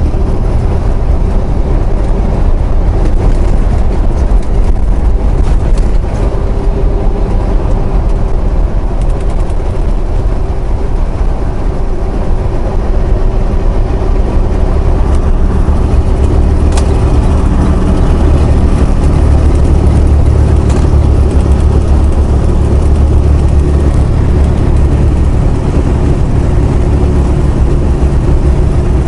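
Semi truck's diesel engine pulling steadily at highway speed, with tyre and road noise, heard loud from inside the cab.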